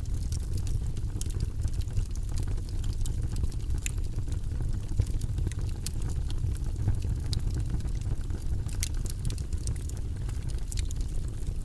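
Wood logs burning in a fireplace: a steady low rumble from the flames with scattered sharp crackles and pops at irregular intervals.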